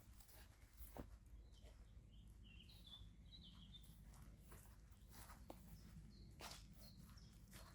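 Faint small-bird chirping, a cluster of short high chirps a couple of seconds in and a few more near the end, over soft footsteps on a path and a steady low rumble.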